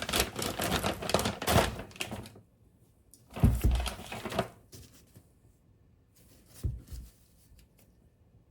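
Objects being handled: about two seconds of quick clattering, then a sharp thud followed by a short rattle, and a couple of light knocks near the end.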